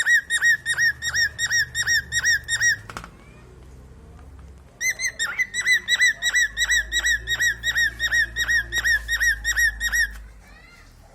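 Male cockatiel whistling its song: a quick series of short, clear, arched notes, about three a second. It breaks off after about three seconds, pauses briefly, then starts again and repeats the same note for about five more seconds.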